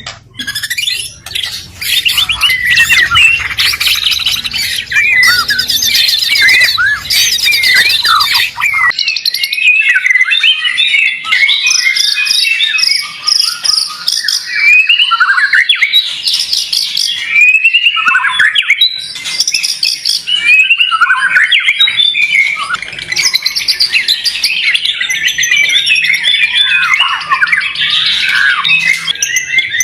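White-rumped shama (murai batu) singing a long, rich song without pause: fast whistles, trills and chattering phrases that rise and fall, in the aggressive 'fighter' style prized for songbird contests. A faint low hum underlies the first nine seconds and cuts off suddenly.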